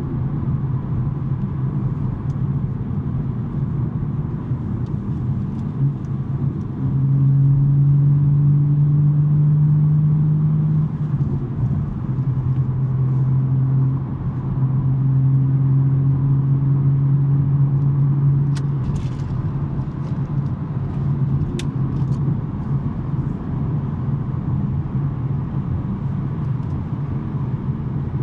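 BMW M3 G80's twin-turbo inline-six, with a non-resonated J-pipe exhaust, cruising: a steady low engine and exhaust drone that twice swells louder for about four seconds at an unchanging pitch. A few light clicks come a little past the middle.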